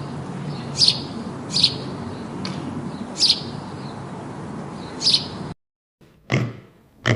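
A bird chirping, one short high note about every second over a steady background hiss. It cuts off about five and a half seconds in, and after a short gap a different animal gives two short calls.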